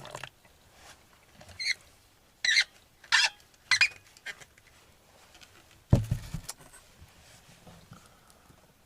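Four short, high squeaks in about two seconds, then a single dull thump about six seconds in.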